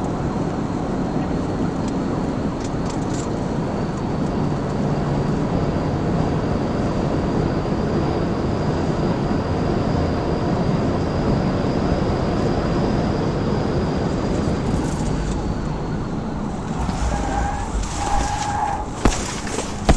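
Police patrol car driving at speed in a pursuit: a steady rush of road, tyre and engine noise as heard from inside the car. Near the end come a few sharp knocks, one noticeably louder than the rest.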